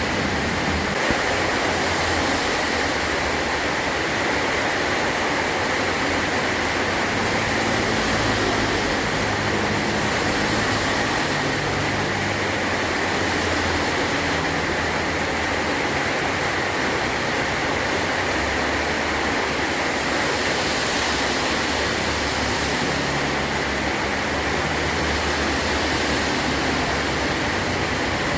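Heavy rain drumming steadily on a metal tin roof, an even hiss with a low rumble underneath.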